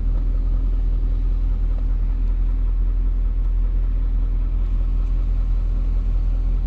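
BMW E39 M5's 4.9-litre S62 V8 engine idling steadily, an even low rumble with no revving.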